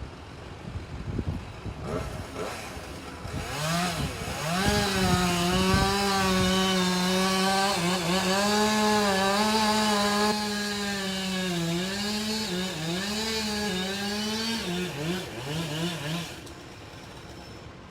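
Chainsaw cutting at high revs. It comes up to speed about four seconds in, its pitch sagging and recovering as the chain bites into the wood, and it stops shortly before the end.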